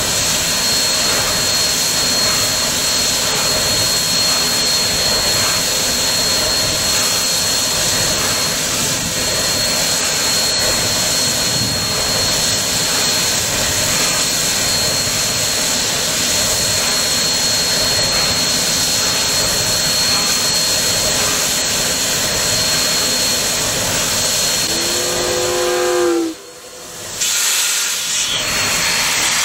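Steady, loud hissing rush of a moving train heard from aboard. About 25 seconds in comes a short pitched wavering sound, and soon after the noise cuts out suddenly for about a second.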